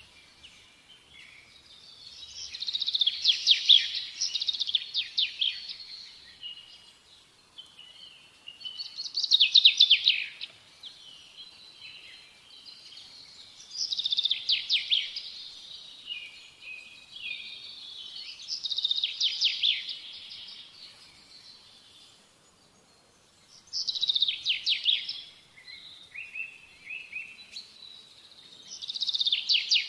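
Bird song: phrases of rapid chirps and trills, each lasting one to two seconds, repeated about every five seconds with quieter pauses between.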